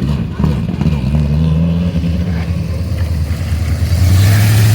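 Car engine running at low revs, turning over steadily, then getting louder and rising slightly in pitch about four seconds in as it gains revs.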